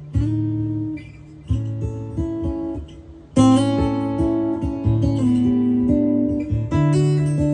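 Donner Hush I silent-style acoustic-electric guitar, its piezo pickup played through a Pod Go modeller with delay and reverb into a PA speaker, strumming chords and picking notes that ring on. The loudest strum comes about halfway through.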